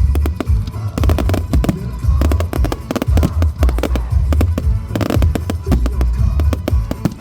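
Fireworks banging and crackling in rapid succession over loud music with a heavy bass.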